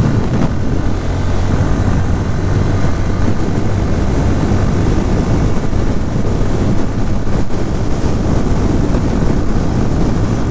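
Bajaj Pulsar N160's single-cylinder engine running steadily at cruising speed on the move, with wind rushing over the microphone.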